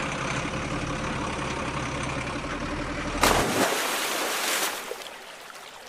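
A heavy vehicle's engine idling steadily, then a loud hiss about three seconds in as the engine stops; a fainter steady rushing noise remains.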